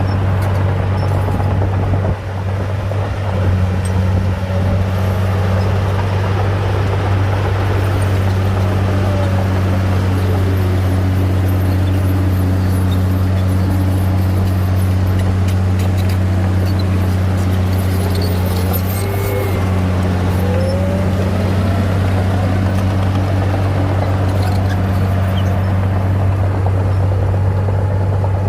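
Heavy diesel engine of earthmoving machinery running steadily under load with a deep drone, with fainter whines that rise and fall in pitch.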